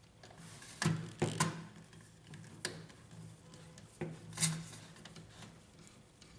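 Light clicks and taps of a screwdriver and small screws on a laser printer's metal protection plate as the screws are taken out, about half a dozen, the loudest about a second in and again near four and a half seconds in.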